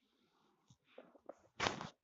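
A dog chewing something crunchy close to the microphone: small wet clicks and ticks, then one loud crunch near the end.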